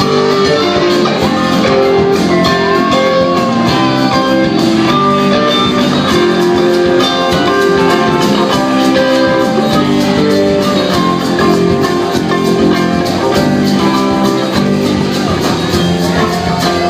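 Live rock band playing an instrumental passage: electric guitars and drum kit, steady and loud.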